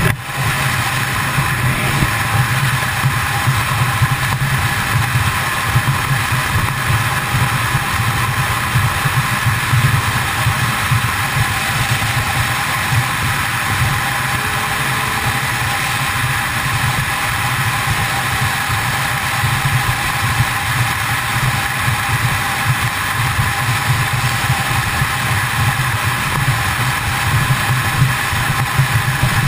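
Kawasaki ZX-10R inline-four engine running at a steady highway cruise, mixed with wind rushing over the microphone.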